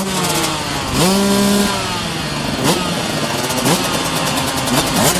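Dirt bike engines racing at full throttle, each rising in pitch and dropping back at the gear changes about once a second, with more than one bike heard at once.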